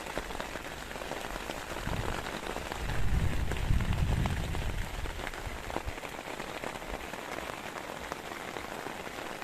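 Heavy rain falling steadily, with a dense patter of individual drops. A low rumble swells up about two seconds in and fades by about five seconds.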